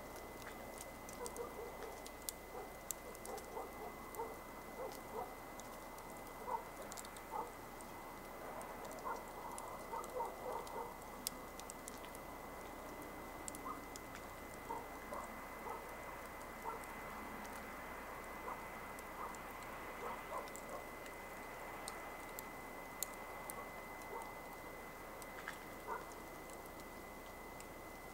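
Wood campfire crackling: irregular sharp pops and snaps over a soft hiss and sputter of burning wood.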